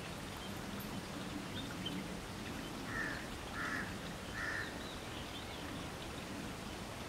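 A bird calls three times in short calls, under a second apart, near the middle, over a steady background hiss of rain.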